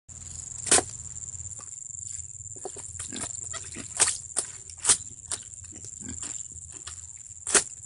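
Irregular sharp slaps and knocks of clothes being washed by hand, four of them loud and many softer ones between, over a steady high-pitched whine.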